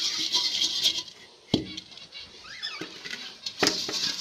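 Anti-insect powder being shaken around inside a clay budgerigar nest pot: a gritty rustling and pattering, with a sharp knock of the pot about one and a half seconds in and more rustling and knocks near the end.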